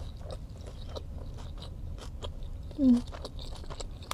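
Close mouth sounds of someone chewing food, with scattered small clicks. A brief falling hum-like voice sound about three seconds in is the loudest moment.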